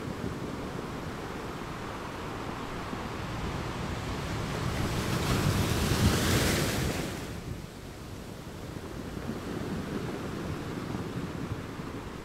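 Rushing noise of wind and sea waves, swelling to a peak about six seconds in and then dying down.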